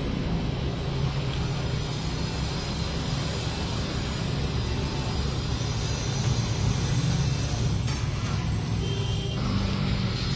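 Steady low mechanical rumble of running motors, with a brief change and a faint high tone about eight to nine seconds in.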